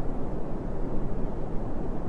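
Steady brown noise: an even, deep hiss, heaviest in the low end, with no tones, rhythm or breaks.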